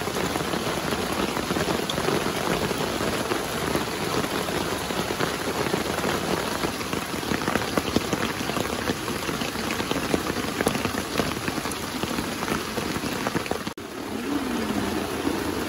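Steady rain pattering on a tent's fabric, heard from inside the tent as a dense haze of countless small drop ticks. It dips briefly near the end.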